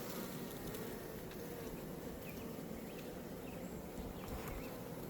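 Honeybees buzzing steadily around an opened hive, a continuous low hum from the colony.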